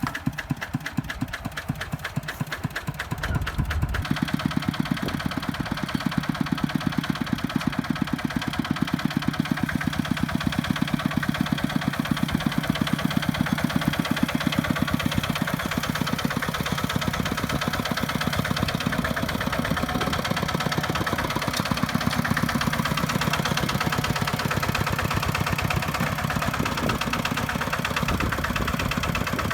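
Single-cylinder diesel engine of a Kubota walking tractor chugging steadily. About four seconds in, it speeds up and gets louder, then keeps running at that higher speed.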